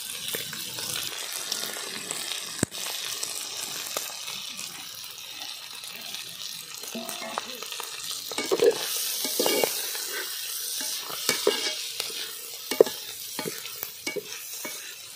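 Goat tripe and drumstick flowers sizzling steadily as they fry in a large metal pot. A slotted metal ladle stirs and scrapes through them, with scattered clicks against the pot, more busily in the second half.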